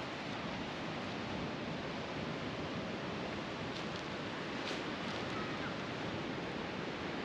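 Steady roar of Pacific Ocean surf breaking on the beach, with a few faint clicks around the middle.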